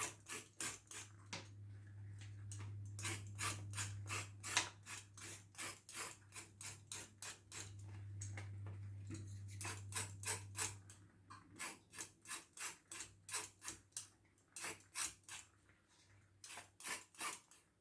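Vegetable peeler scraping the skin off a carrot in short, quick strokes, about three a second with brief pauses. A faint low hum runs under it and stops about two-thirds of the way in.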